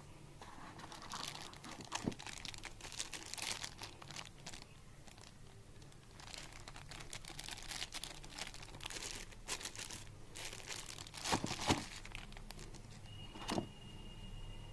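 Plastic packaging being handled, crinkling and rustling in irregular bursts, with a few sharp clicks, twice near the end.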